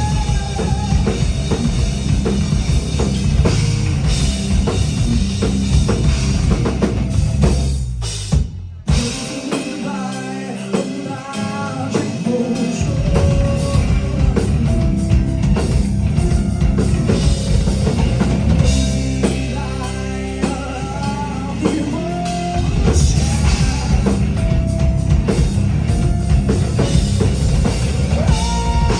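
Rock band playing: drums, bass and electric guitar. About eight seconds in the music almost stops for a moment. For the next few seconds it continues without the bass and kick drum, then the full band comes back in.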